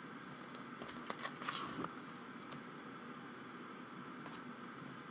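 Handling a large photobook and turning its pages: a few soft taps and clicks, with a brief paper rustle about a second and a half in.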